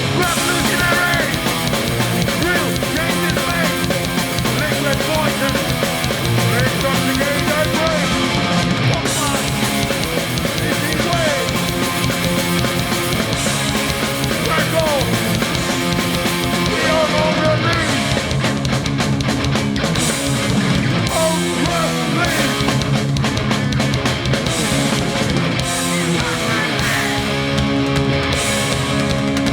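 Hardcore punk band playing a song live at full volume, with electric guitars to the fore.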